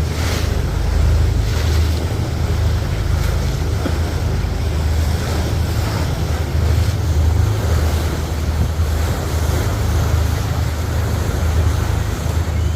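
Wind buffeting the microphone in a steady low rumble over an even wash of water noise, as on an open boat under way.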